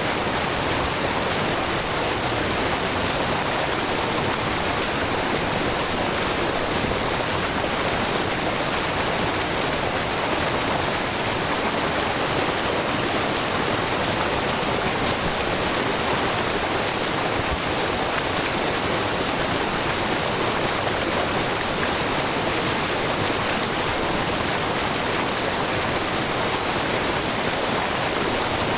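Shiraito Falls, a low, wide waterfall of many thin streams of spring water spilling over a rock face, splashing into the pool below in a steady, unbroken rush.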